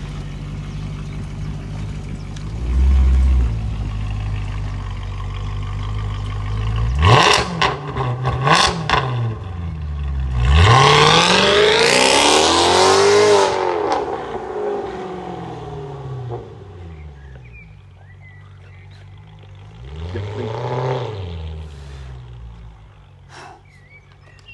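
Maserati Quattroporte V8 idling, then revved with two quick throttle blips about seven and eight and a half seconds in. A longer, louder rev follows around eleven to fourteen seconds, rising and falling back. The engine settles back, and there is one more rev near twenty-one seconds.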